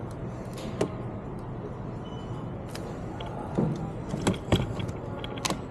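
Several sharp clicks and knocks from handling things, over a steady background hum; the loudest come around four to four and a half seconds in.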